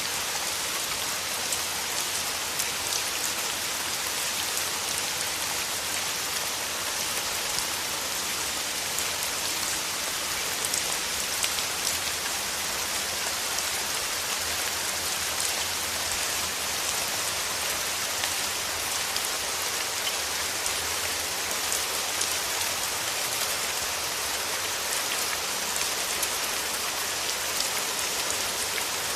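Steady rain falling through forest trees, an even hiss of many drops pattering on leaves and surfaces with fine individual drip ticks.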